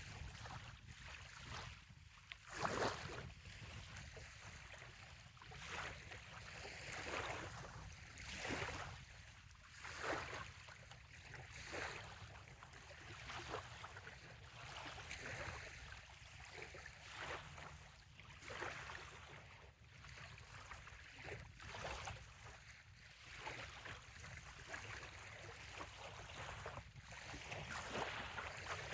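Small waves lapping on a sandy bay shoreline, a soft splash every second or two, the loudest a little under three seconds in, over a steady low rumble.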